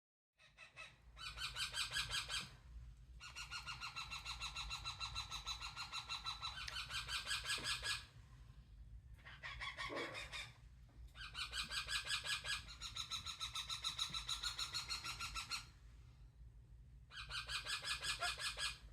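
A pet parrot calling in long bouts of rapid, rhythmic pulsed calls a few seconds each, with short pauses between, and one shorter, different call about ten seconds in.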